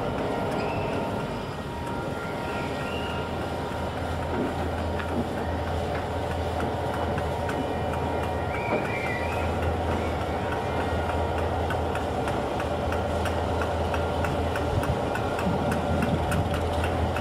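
Diesel locomotive running steadily as it moves rail cars through a yard, with a regular clicking of wheels over rail joints in the last few seconds.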